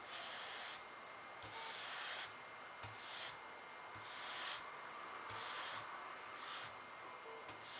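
A paintbrush rubbing across the painting surface in short, repeated strokes: about six or seven scratchy strokes, each under a second, with brief pauses between them.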